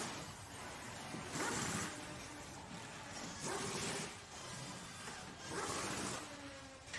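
Workshop tool worked in rasping strokes, three of them about two seconds apart, over a steady background din.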